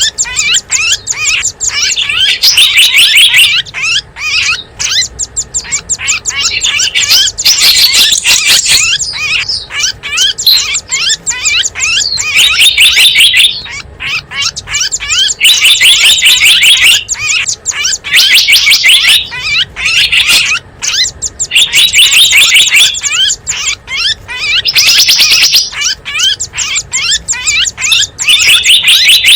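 Bird-lure recording of small wild songbirds: dense, rapid chirping and twittering from many calls at once, swelling into louder clusters every second or two.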